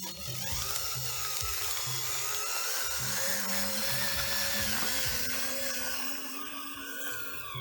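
Small high-speed electric motor whining steadily, its pitch wavering slightly, over background music with a steady low beat.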